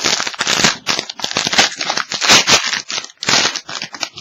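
Trading cards being handled: a run of irregular scraping rustles as cardboard cards slide and flick against one another.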